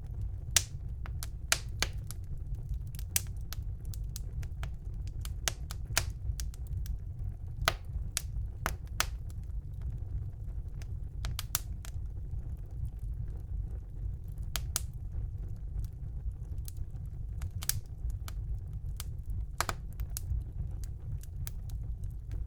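Fire burning in a fireplace, crackling with irregular sharp pops and snaps over a steady low rumble of the flames.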